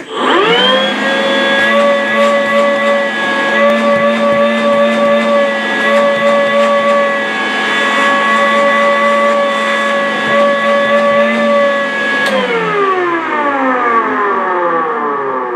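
Makita DVC750LZ 18V cordless wet/dry vacuum switched on at its lowest speed: a click, a quick spin-up, then a steady motor whine for about twelve seconds. A second click switches it off, and the motor winds down with falling pitch.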